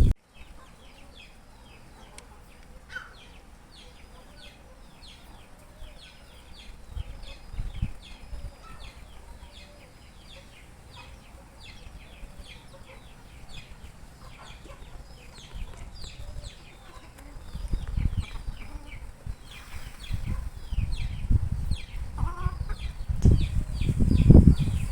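Chickens with chicks: a steady chorus of rapid, high, falling peeps. Low rumbling thumps of handling or wind noise come in during the last several seconds.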